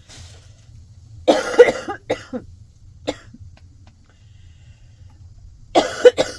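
A woman sick with a cold coughing hard. A fit of several coughs comes about a second in, followed by a few single coughs, and another short fit comes near the end.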